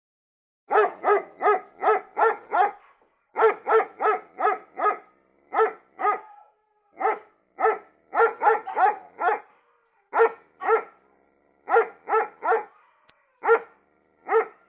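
A dog barking over and over in runs of quick barks, about three a second, with short pauses between the runs.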